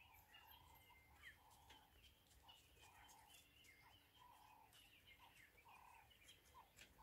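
Near silence, with faint short bird calls repeating irregularly and thin higher chirps.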